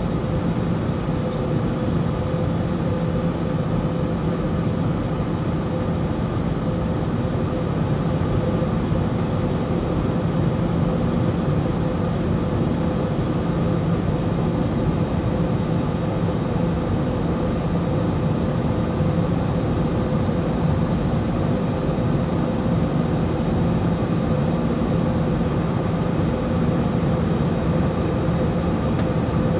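Steady in-flight airliner cabin noise: the even rush of air and jet engine drone heard from a window seat, with a constant low hum and no change throughout.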